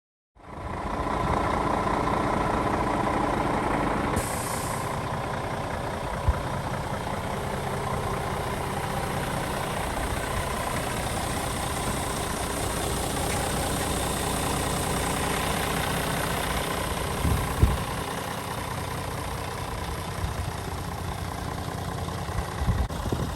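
Scania R450 truck's 13-litre six-cylinder diesel idling steadily, with a short hiss of compressed air about four seconds in and a few low knocks later on.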